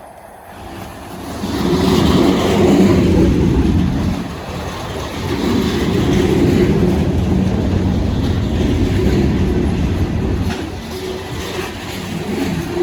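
A diesel-powered train passing close by, its low rumble rising about a second and a half in, staying loud, and easing off near the end.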